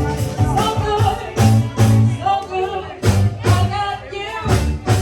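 Live pub band playing an upbeat song: a drum kit keeps a steady driving beat under a bass line, with a voice singing over it.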